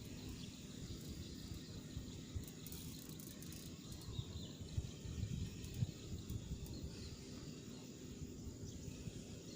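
Quiet outdoor ambience: a low, gusty rumble of wind on the microphone with faint insects chirping.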